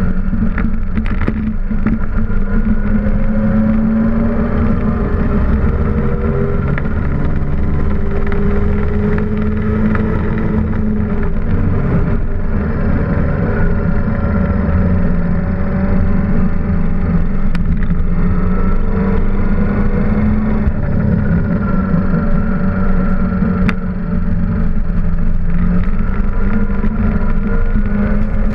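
Datsun Z race car's inline-six engine running hard on track, heard from inside the stripped, roll-caged cockpit. Its pitch rises and falls again and again as the revs climb and drop.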